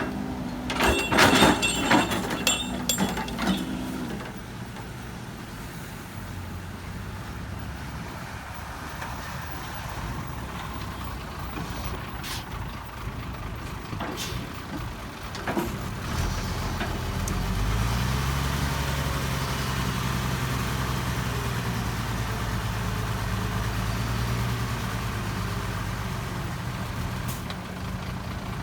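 Heavy diesel engine running, rising to a stronger, steady higher-revving drone about 17 seconds in. A burst of loud sharp sounds comes in the first few seconds.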